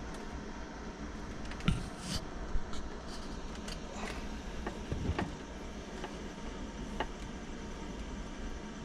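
A few scattered sharp clicks and knocks, like tools or fittings being handled, over a steady low background hum.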